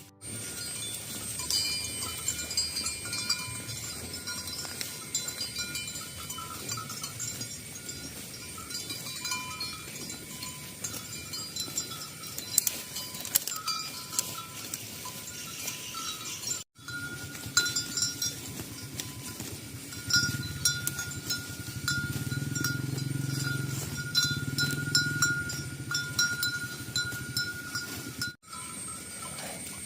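A herd of cattle on the move, with bells clinking and ringing throughout. Low mooing comes in the second half.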